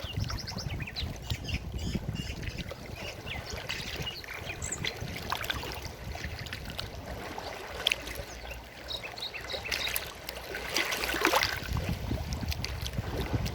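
Forest stream water flowing steadily with a low rush, while small birds chirp over it throughout. The chirping thickens into a dense burst of twittering about eleven seconds in.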